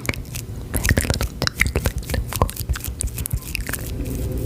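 Close-miked ASMR trigger sounds: a quick, irregular run of crisp clicks and small taps, with no whispering.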